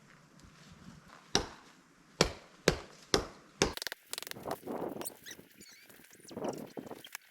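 Five sharp chopping strikes into a tree trunk, about half a second apart, the kind an axe makes when felling a tree. After that come irregular crackling and rough scraping sounds.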